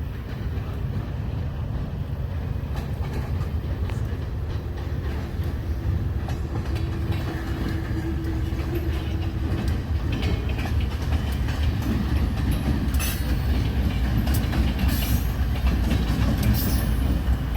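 Freight train hauled by GE B39-8E diesel locomotives, a steady low rumble that grows louder as it comes on. In the last few seconds there are sharp clicks of wheels over rail joints.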